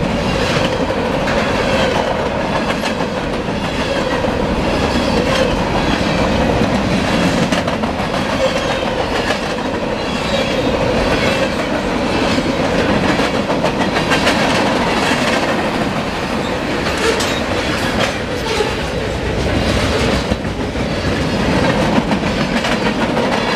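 Freight cars of a mixed freight train rolling past at close range: steady wheel-on-rail rumble with clickety-clack over the rail joints.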